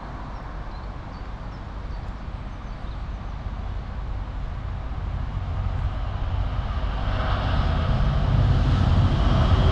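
Diesel train approaching, its engine rumble and wheel noise growing steadily louder as it draws nearer.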